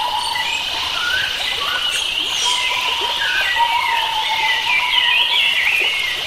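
Forest bird chorus: many birds chirping and warbling at once, with a level high note that comes and goes, over a faint even hiss.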